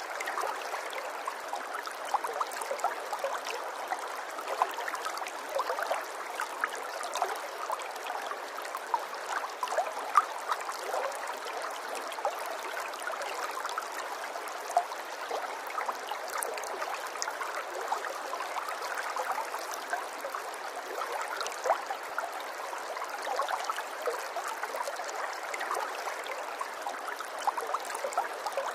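Running water babbling and trickling steadily, a continuous stream-like flow dotted with many small splashes and drips.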